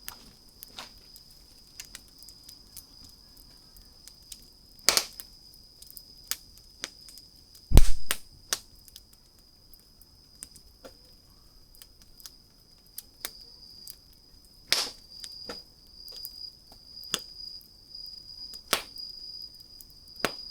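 Wood campfire crackling with scattered sharp pops, the loudest about eight seconds in with a deep thump, and others about five and fifteen seconds in.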